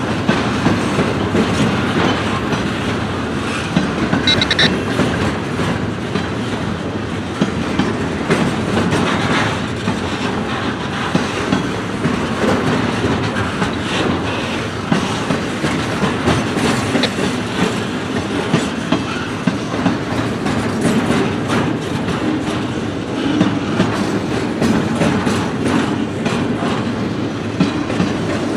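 Freight train cars rolling past, the wheels clacking over rail joints in a steady clatter. A brief high squeal about four seconds in.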